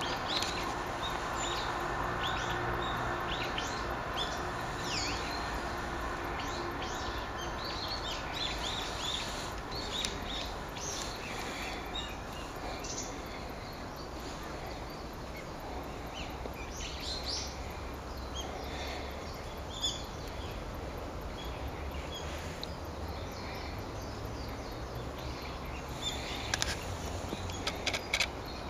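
Small woodland songbirds calling, with many short high chirps and call notes scattered throughout over a steady background hiss and low hum.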